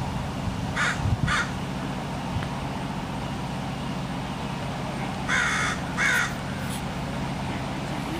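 A crow cawing: two short caws about a second in, then two longer, louder caws around five to six seconds in. A steady low hum runs underneath.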